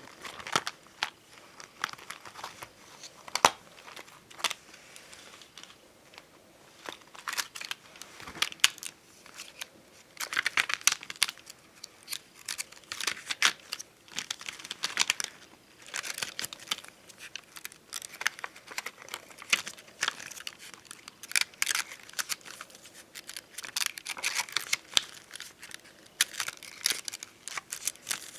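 Puffy bonbon drop and ohajiki stickers being handled and peeled from their sheets: irregular crinkling and tearing with sharp clicks and taps.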